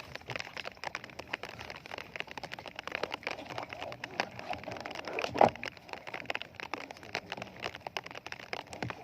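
Rain pattering, heard as a dense run of small ticks from drops striking the boat and gear. About five and a half seconds in there is one much louder thump.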